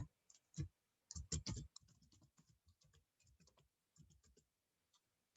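Computer keyboard typing: quick, irregular keystrokes, louder in the first second and a half, then lighter taps that die away about four and a half seconds in.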